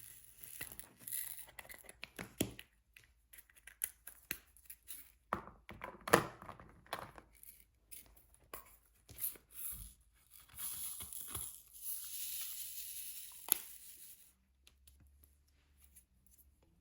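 Plastic film crinkling and peeling during diamond painting, mixed with scattered sharp clicks and taps of handling. A loud snap comes about 6 seconds in, and a longer steady peeling rustle runs from about ten seconds in to about fourteen.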